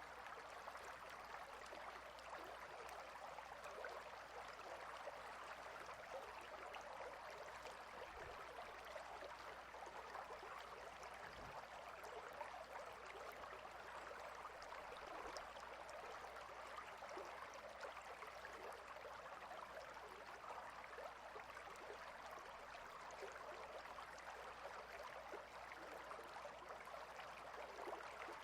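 Clear river water flowing steadily over and between rocks: a faint, even rushing.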